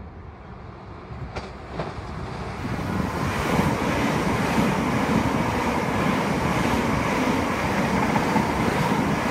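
Electric multiple-unit passenger train passing at speed: the rumble of wheels on rails grows loud about three seconds in and holds, with a faint steady whine over it.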